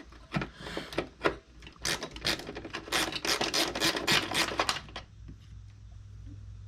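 Socket ratchet clicking in quick repeated strokes for about three seconds, backing out a tight bolt on an engine accessory bracket, then stopping. A few separate clicks come before it.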